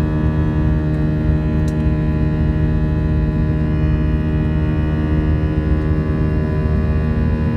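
Airbus A320 cabin noise: the jet engines and airflow make a steady hum of several even tones over a low rumble, not rising or falling.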